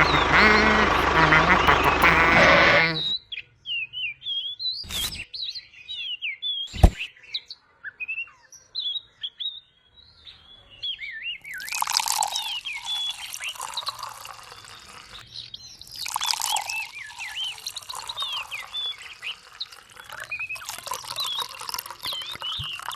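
Small birds chirping with many short rising and falling calls. A loud machine-like noise cuts off about three seconds in, and two sharp clicks follow soon after.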